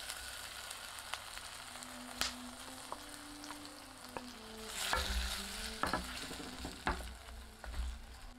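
Chopped tomato sizzling and frying in hot olive oil in a clay pot as it is tipped in and stirred, with several sharp wooden knocks of the spatula against the pot, mostly in the second half.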